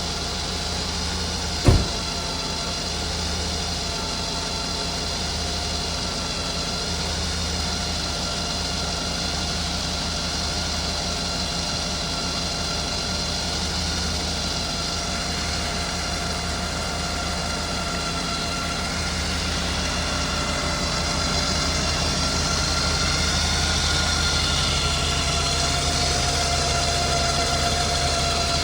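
Mercedes-Benz 4.2-litre M116 V8 idling steadily just after a cold start. One sharp knock sounds about two seconds in, and the engine gets slightly louder about two-thirds of the way through.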